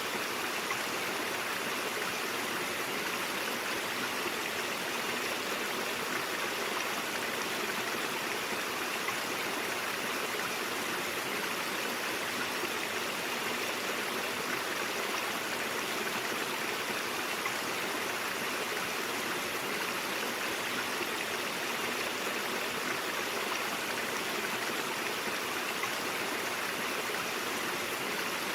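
Steady, continuous rushing and babbling of a brook flowing over rocks.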